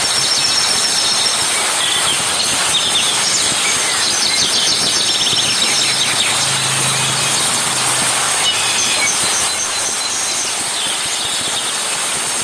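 Insects droning steadily at a high pitch, with bursts of rapid chirping trills over the drone.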